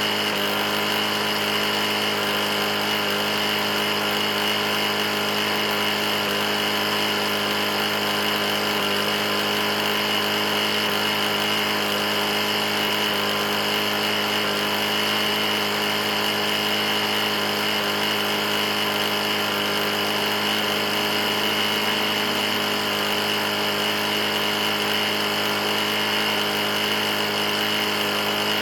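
Briggs & Stratton E450 engine on a Murray lawn mower running steadily at constant speed. The engine has a bad knock.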